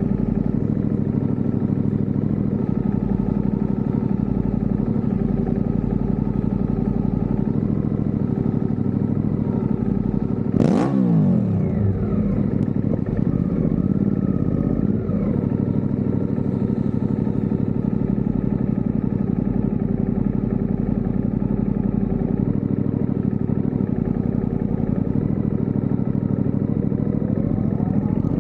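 Suzuki GSX-R sport bike's inline-four engine idling steadily. About ten seconds in it is given a quick throttle blip, the revs jumping and falling straight back, with a few smaller blips after; near the end the revs climb as the bike pulls away.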